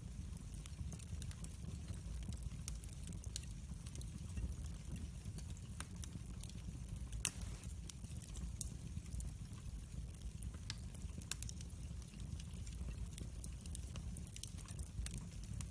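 Wood fire burning, crackling with scattered small pops over a low steady rumble of the flames; one sharper pop about seven seconds in.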